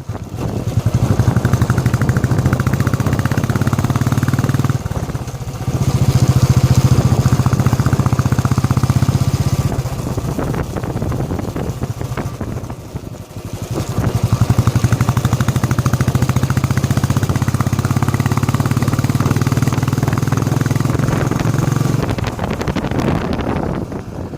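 Royal Enfield Classic 350's single-cylinder engine running loudly through its stock exhaust, in even firing pulses. It swells and eases back a few times, dropping off about five seconds in and again for a few seconds in the middle.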